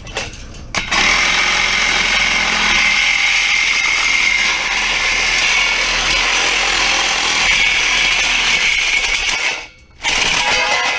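A handheld power tool running steadily with a high whine, starting about a second in and cutting off sharply near the end.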